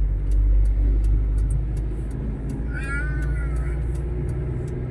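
A vehicle engine running steadily with a low hum. About three seconds in, a short high-pitched cry rises and falls.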